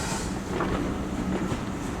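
A steam-hauled train running along the track: a steady rumble of wheels on rails, with wind buffeting the microphone.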